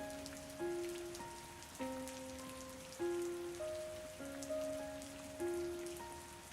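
Steady rain with scattered drops, under a slow, gentle melody of held notes, each struck and fading, a new note about every half second and the strongest roughly every second.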